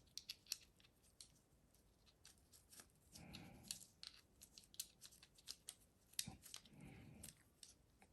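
Faint, irregular clicks and light taps of small metal parts being handled as a metal clip is fitted onto a Denso starter's parts.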